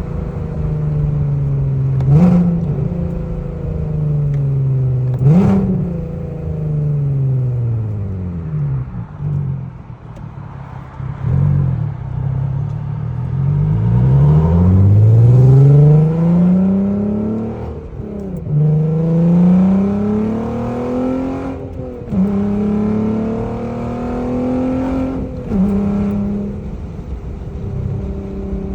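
Audi TT 3.2 VR6 engine through USP high-flow downpipes and a Magnaflow cat-back exhaust, heard while driving. It slows with falling revs and two downshifts, each blipped with a sharp crack, then pulls up through the gears with rising revs. It upshifts three times near the end.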